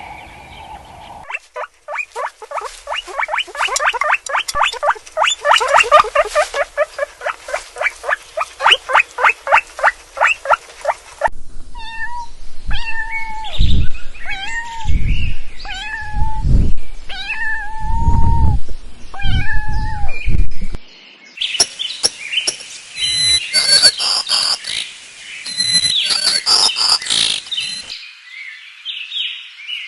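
A series of domestic animal calls in three separate clips: first a fast run of short repeated calls, four or five a second; then a cat meowing about eight times, each meow rising and falling; then a busy, high-pitched mix of cries near the end.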